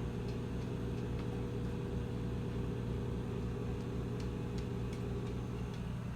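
Microwave oven running, a steady hum while it heats a bowl of water.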